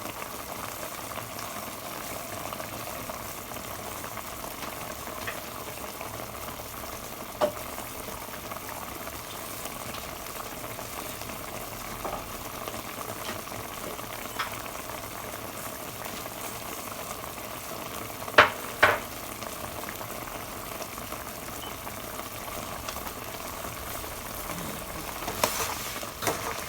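Chicken adobo simmering in a pot, a steady bubbling sizzle as its sauce reduces. A few sharp clicks come through it, the loudest two close together about eighteen seconds in.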